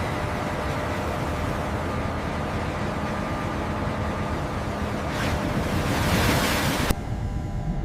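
Steady rushing sea ambience of surf and wind. It swells about five seconds in, then cuts off abruptly into a duller, lower rumble near the end.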